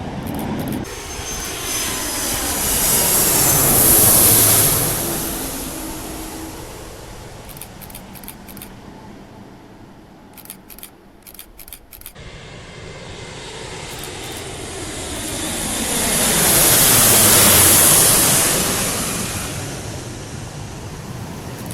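Dassault Rafale fighter jets' twin turbofan engines as two jets pass by on landing, one after the other. Each swells to a loud peak, about 4 seconds in and again near the end, then fades as its whine drops in pitch.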